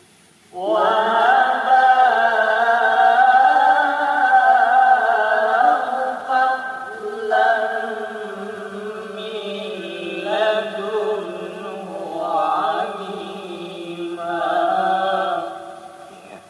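A solo Qur'an recitation in the melodic tilawah style, played from an old cassette. A single voice sings long, held, ornamented phrases with a few short breaths between them.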